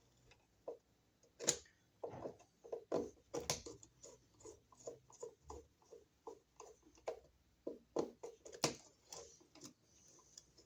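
Faint, irregular clicks and small taps of a screwdriver and wires being worked on a wall receptacle's terminal screws as the old outlet's wires are unhooked. A few sharper clicks stand out, about a second and a half, three and a half and nearly nine seconds in.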